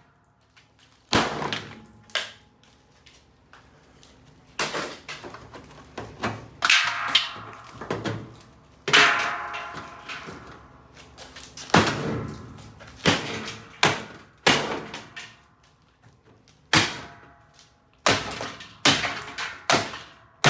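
Repeated heavy blows striking the sheet-metal cabinet of a Kenmore Elite top-load washing machine as it is smashed for scrap, about a dozen clanging hits at irregular intervals, each ringing briefly.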